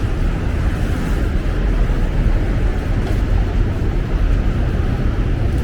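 Steady low rumbling city street noise, traffic-like, with no distinct events.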